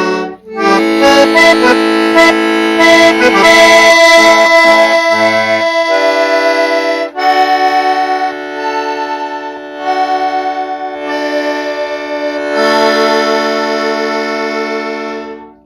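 Accordion playing: chords held under a melody, with brief breaks about half a second in and again about seven seconds in. The playing stops just at the end.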